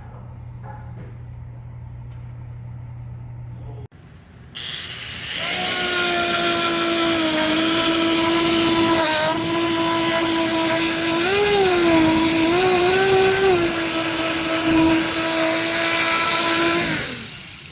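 A handheld electric power tool works a zelkova wood board with a loud, steady whine and grinding hiss. Its pitch dips briefly a few times as it bites under load, and it winds down near the end. Before it starts there is a low steady hum that cuts off abruptly.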